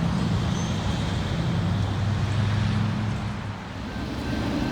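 A low, steady engine hum over traffic-like background noise, easing briefly about three and a half seconds in.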